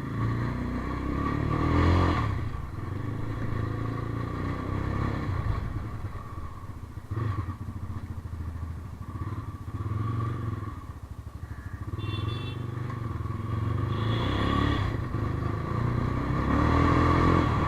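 Motorcycle engine running on the move, rising and easing in a few swells, picked up by an action camera's built-in microphone.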